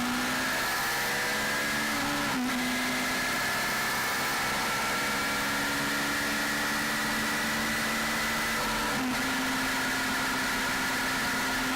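Yamaha FZS 600 Fazer's inline four-cylinder engine pulling under way, its pitch climbing slowly and dropping sharply twice, at about two seconds in and near nine seconds, as it shifts up a gear, over steady wind rush on the microphone.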